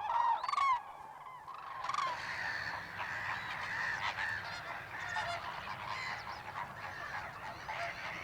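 A flock of large birds calling: a few separate calls in the first second, then from about two seconds in, many overlapping honking calls at once.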